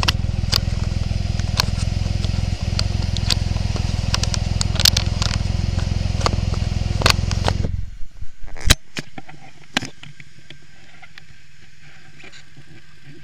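Triumph Rocket III's three-cylinder engine running steadily as the motorcycle rides along, heard from a handlebar-mounted camera, with scattered clicks and knocks of hands on the camera. About eight seconds in, as the camera is adjusted, the sound drops sharply to a faint low hum.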